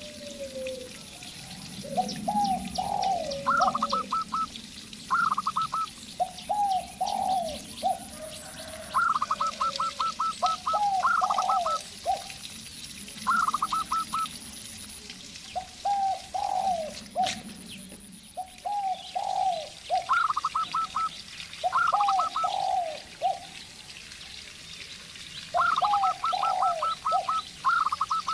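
Zebra dove and spotted dove calling back and forth: repeated groups of low, falling coos alternate with quick runs of short, higher notes, over and over.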